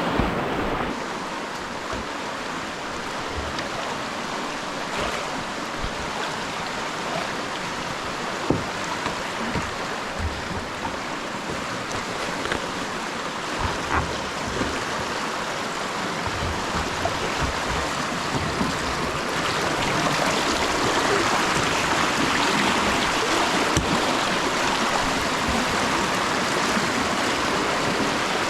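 Rushing whitewater of a river, a steady hiss that grows louder about two-thirds of the way through, with a few sharp knocks.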